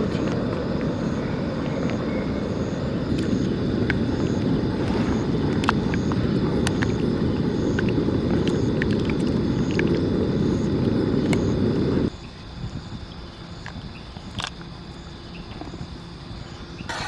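Small camping gas stove burner running with a steady low roar under a pot, with scattered sharp ticks and crackles. The burner cuts off abruptly about twelve seconds in, when the flame is turned off.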